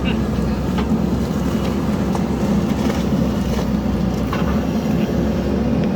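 Diesel engine of a JCB backhoe loader running steadily at working revs, with a few faint knocks over the drone.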